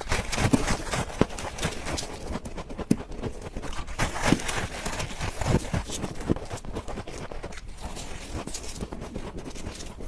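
Close-up biting and chewing of freezer frost ice: many sharp, irregular crunches, thinning out and getting quieter in the last few seconds.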